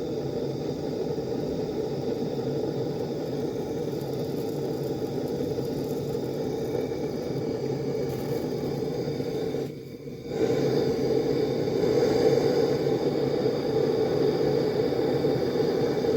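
Gas blowtorch flame running steadily while heating a copper pipe joint for soldering. The flame noise drops out briefly about ten seconds in, then comes back a little louder.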